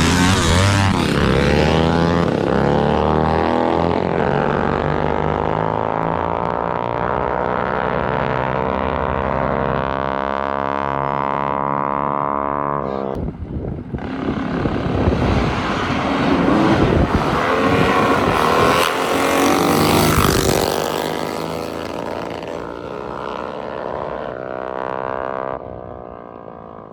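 Small mini bike engines at full throttle on a race pass, their pitch climbing steadily as they accelerate. A sudden break comes about halfway, then the engines run loud again and fade into the distance near the end.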